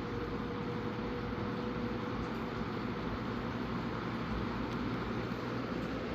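Vintage Galaxy 20-inch box fan with a plastic 2.2-amp motor running steadily: a constant rush of air from the blades with a faint motor hum under it.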